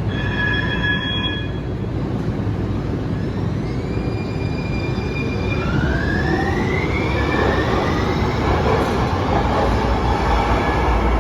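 Muni Metro light rail train in the Market Street Subway tunnel. A brief steady tone with several pitches sounds at the start, then the electric traction motors whine, rising in pitch as the train accelerates, and wheel and running noise grows beneath the whine.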